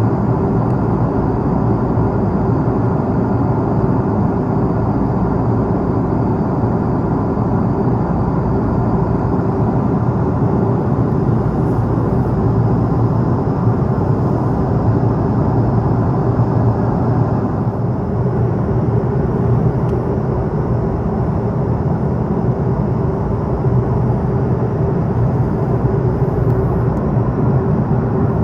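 Airbus A330-300 cabin noise in flight: a steady rush of engine and airflow with a constant hum. The noise eases slightly about two-thirds of the way through.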